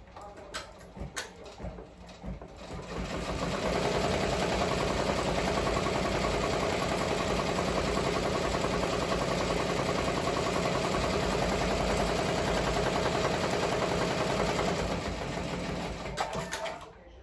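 Ricoma MT-1501 multi-needle embroidery machine stitching. A few clicks come first, then it speeds up about three seconds in, runs at a steady fast stitching rhythm, and winds down near the end.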